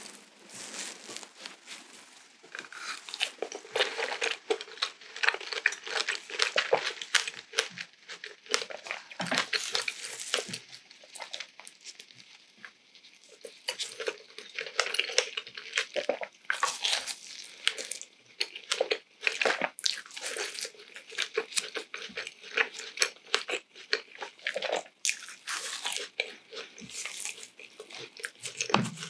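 Close-miked mouth sounds of a person biting and chewing Nutella-coated food, a steady run of crisp, sticky crunches and clicks in bursts, easing off briefly twice.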